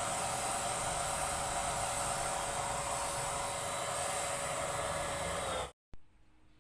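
Paint Zoom handheld electric paint sprayer running steadily, its motor whine over a hiss of air and spray. It cuts off abruptly near the end.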